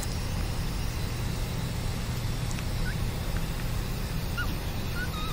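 A few faint, short squeaks from a newborn baby just taken off a ventilator, mostly in the second half, over a steady low hum.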